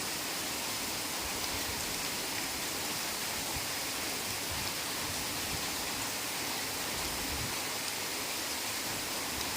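Heavy rain falling in a forest: a steady, even hiss of rain.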